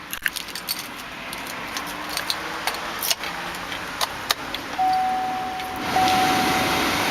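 Keys jangling and clicking, then the 2008 Chevrolet Tahoe's warning chime sounds from about five seconds in: one steady tone broken by short gaps about every second. A louder steady rushing noise comes in about six seconds in.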